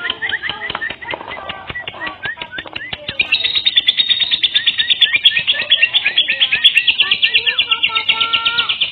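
Lovebird chattering in rapid high chirps with a few lower call notes, breaking about three seconds in into a long, fast, unbroken trill that is louder. This is the kind of song kept as a lure recording to set other lovebirds singing.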